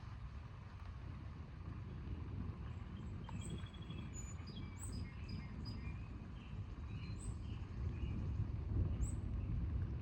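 Low, rolling rumble of distant thunder that swells near the end, with birds chirping in short high calls over it.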